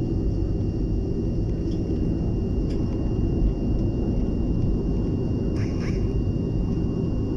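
Cabin noise of a BAe 146-200 airliner with its four turbofan engines running steadily: a low rumble with a thin, steady high whine on top. A short rattle about six seconds in.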